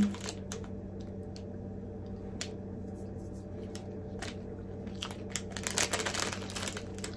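Someone biting into and chewing a Hershey's strawberries and cream chocolate bar close to the microphone: a few scattered soft clicks, then a run of crunching about five to seven seconds in, over a low steady hum.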